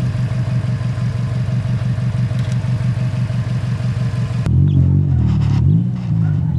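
Subaru Impreza WRX's turbocharged flat-four engine idling with a steady, evenly pulsing low rumble. After a sudden cut about four and a half seconds in, the engine note wavers up and down.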